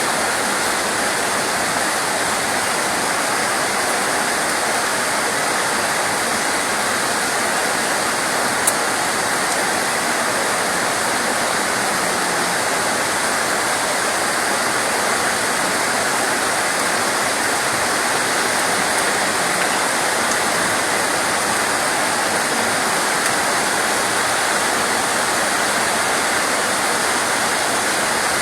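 Steady, even hiss of heavy rain, with a single brief click about nine seconds in.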